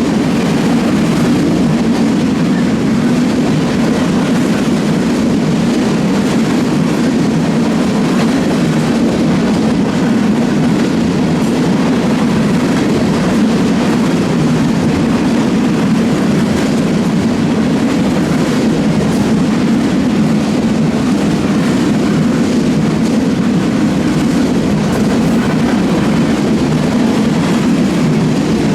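A train passing close by, its cars rolling steadily over the rails.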